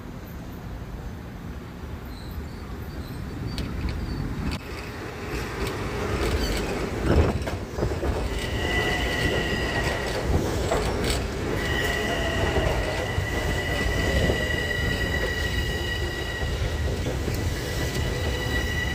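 Long Island Rail Road train coming through the station, growing louder, with a sharp clank about seven seconds in. A steady high wheel squeal sets in about eight seconds in and keeps on, with a short break in the middle.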